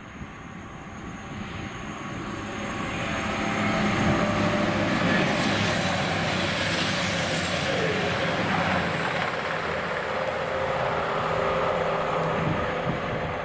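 A diesel train passing: the sound builds over the first few seconds and stays loud from about four seconds in, with a hissing rush in the middle.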